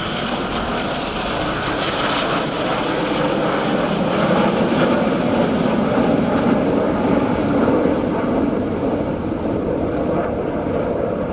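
Jet noise of the Red Arrows' BAE Hawk T1 jets flying by in formation. It is a steady rush that builds over the first few seconds and eases a little near the end.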